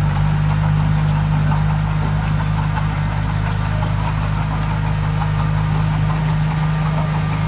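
Diesel engine of heavy earthmoving machinery running steadily at constant speed, with no change in pitch.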